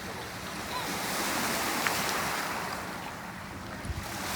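Wind buffeting the microphone over water rushing past a moving river boat, a steady noise that swells for a couple of seconds and eases, with a brief click and a low thump near the end.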